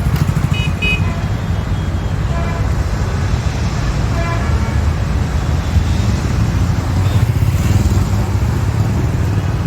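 Highway traffic with a steady low rumble of passing vehicles, and a few short horn toots: a quick double toot near the start, then single ones about two and a half and four seconds in.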